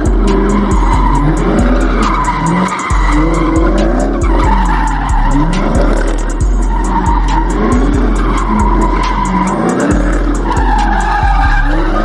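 Car tires squealing and screeching in burnouts, over loud hip-hop music with a deep sliding bass and a fast ticking beat.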